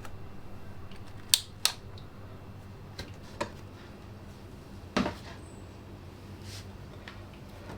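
A few sharp clicks and light knocks of small objects being handled, two close together about a second in and a louder one about five seconds in, over a steady low hum.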